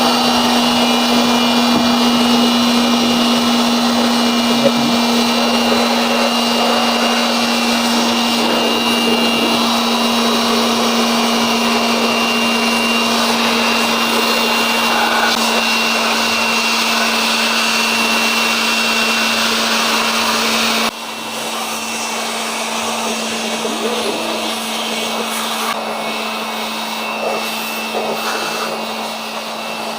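Electric air blower running steadily with a hum and a faint high whine, blowing accumulated dust out of a desktop PC's case and fan. It drops suddenly to a lower level about 21 seconds in and keeps running.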